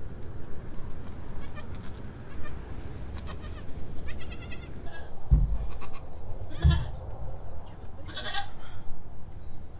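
Nigerian Dwarf goats bleating: three short, high-pitched calls spaced a couple of seconds apart, with two dull low thumps around the middle.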